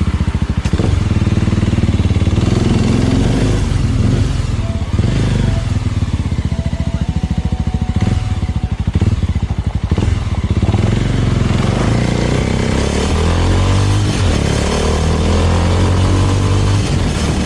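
Small Suzuki motorcycle's engine running under way, its pitch rising and falling with throttle and gear changes.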